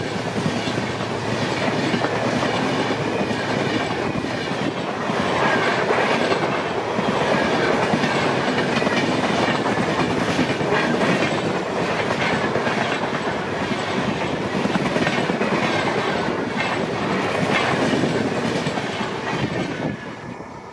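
Passenger train coaches passing close by at speed, their wheels clattering rhythmically over the rail joints. The noise falls away sharply near the end as the last coach goes past.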